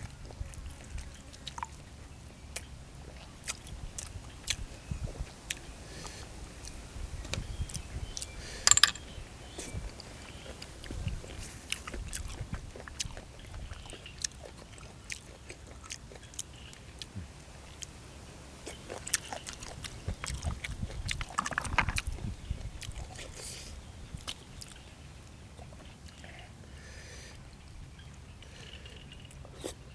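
Close-miked mukbang eating sounds: a person chewing and biting food, with small wet clicks and mouth noises throughout and sharp crunches about 9 seconds in and again around 21–22 seconds.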